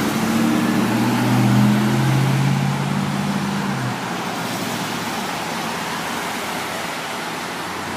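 Truck engine running, its pitch creeping up slightly and getting louder, then stopping abruptly about four seconds in. A steady hiss of noise carries on underneath.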